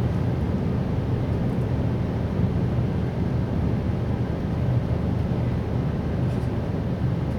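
Steady low rumble of an electric train running along the line, heard inside the passenger cabin of a Siemens Desiro HC (class 462) multiple unit, with a faint tick now and then.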